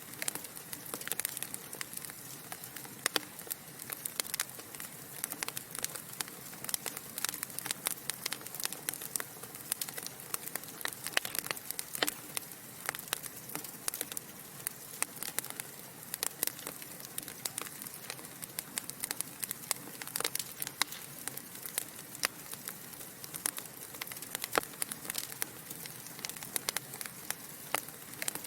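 Wood fire burning in a fireplace: logs crackling and popping in many sharp irregular clicks over a steady soft hiss.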